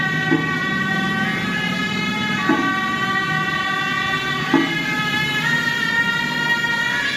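Suona (Chinese shawms) playing long held notes that step between pitches, with a drum or gong stroke about every two seconds.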